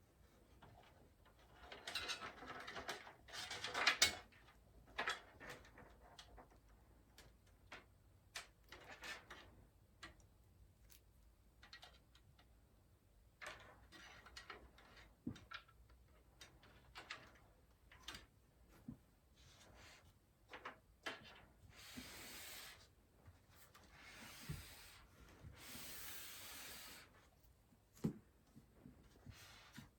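Hands working on a PC case and its small parts: scattered light clicks, taps and plastic-and-metal handling noises, a busier cluster a few seconds in, and two longer scratchy rustles near the end.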